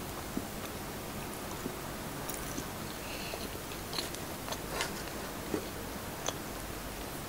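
Close-miked eating sounds: soft chewing and wet mouth clicks from a mouthful of siomai dumpling, over a steady hiss. In the second half there are a few sharper clicks and a brief papery rustle as another siomai is taken from its cardboard takeout box.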